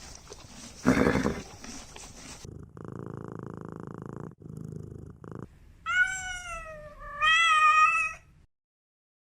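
A domestic cat purring steadily, then meowing twice, each meow drawn out for about a second. Before the purring, a short loud noisy sound about a second in.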